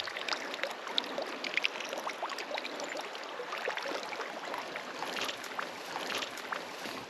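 River water running and splashing close by, a steady rushing with many small quick splashes and gurgles.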